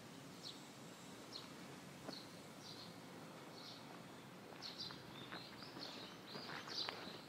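Faint outdoor ambience with a bird giving short high chirps every second or so, coming more often in the last few seconds. A few light taps come near the end.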